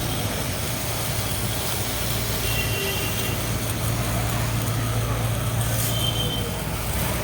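Pressure washer (jet machine) running steadily with a low hum, which drops away about six seconds in.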